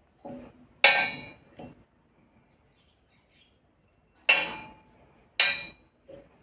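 Metal striking metal during strut top-mount work: three loud, sharp clanks, about a second in, a little past four seconds and just after five, each ringing briefly, with a few lighter knocks between.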